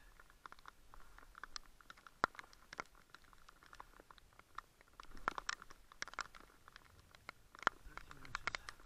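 Rain pattering close to the microphone: scattered, irregular sharp ticks of raindrops, faint.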